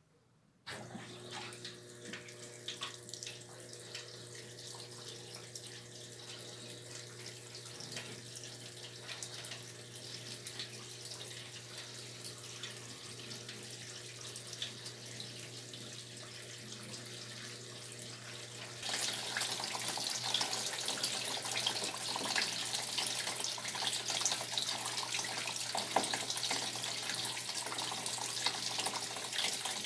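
Brastemp top-loading washing machine filling with water: the inlet valve opens abruptly about a second in and water runs steadily into the tub over a low hum. Near the two-thirds mark the flow suddenly gets louder and brighter, and it keeps running.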